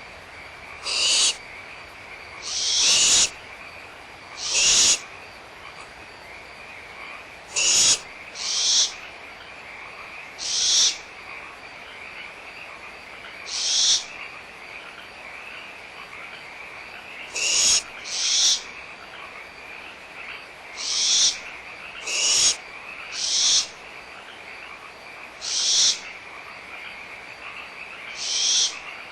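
Barn owl chicks giving short, harsh hissing calls, the owlets' begging hiss, about fourteen times at irregular intervals of one to three seconds. Underneath runs a steady chorus of frogs.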